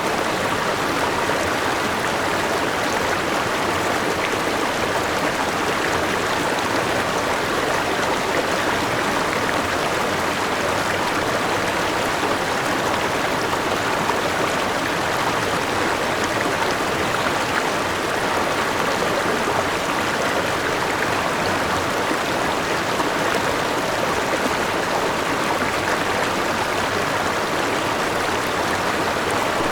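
Forest river rushing over a small waterfall: a steady, even wash of flowing water.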